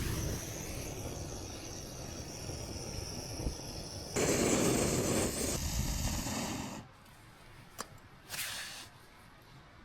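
Pressurised gas hissing from a portable gas canister aimed at firewood: a steady hiss, then a louder rush lasting about two and a half seconds, stopping suddenly. After it comes a sharp click and a brief short hiss.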